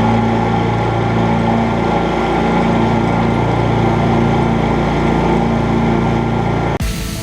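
A motor engine running at a steady speed with no revving; it cuts off abruptly near the end, where music takes over.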